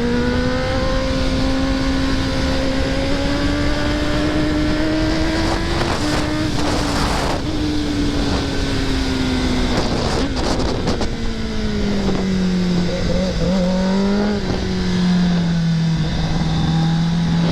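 2024 Kawasaki ZX-10R's inline-four engine pulling at steady speed, its pitch climbing slowly for the first several seconds, easing down through the middle and rising again near the end, with wind rush throughout and brief gusts of noise twice.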